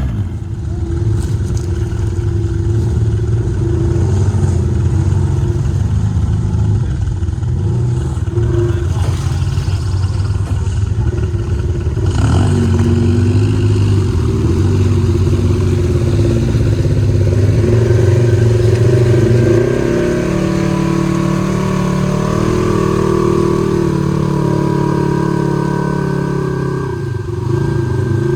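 Side-by-side UTV engine running hard, its pitch rising and falling as the throttle is worked, with a short dip in level near the end.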